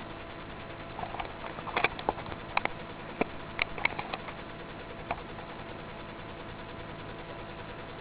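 A cat scrabbling at a sock: a run of light, irregular taps and scuffles from about one to five seconds in, over a faint steady hum.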